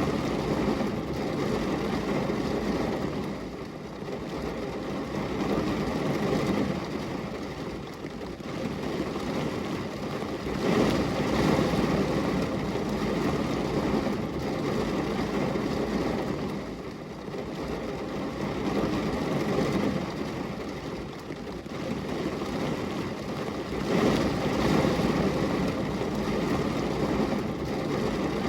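Steady rain, a continuous wash of noise that swells and eases every few seconds.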